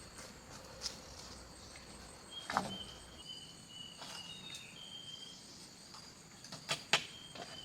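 A steady high-pitched insect chorus, cricket-like, with a few sharp knocks or clicks over it; the loudest knock comes near the end.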